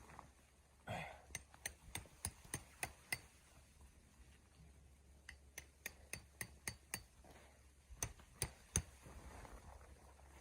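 A run of sharp, light knocks or clicks, about three a second, coming in three bursts with pauses between them.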